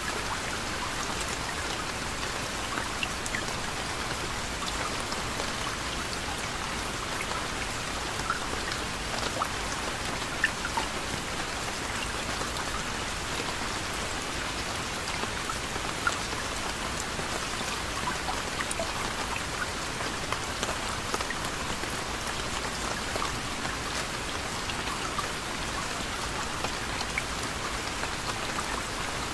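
Steady gentle rain falling, an even patter with many small individual drops ticking on a surface and an occasional louder drop.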